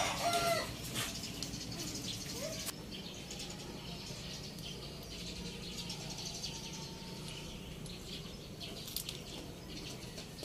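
A bird's call trails off at the very start, then faint bird chirps and a few light clicks of metal as the bolts on an engine's camshaft caps are handled by hand.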